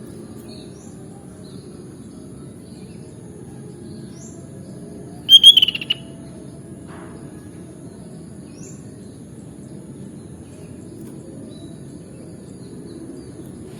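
Sooty-headed bulbul (kutilang) giving one loud, short burst of call notes about five seconds in. Faint short chirps sound here and there over a steady low background rumble.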